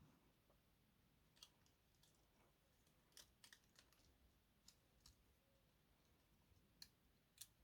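Near silence, with faint scattered clicks and light taps from handling the small parts and wire clips of a model locomotive.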